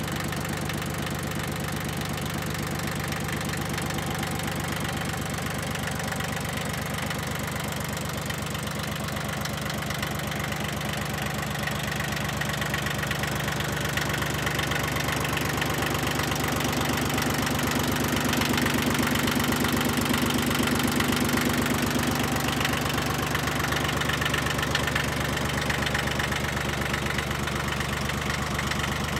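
Yanmar 1610D compact tractor's diesel engine running steadily, a little louder through the middle.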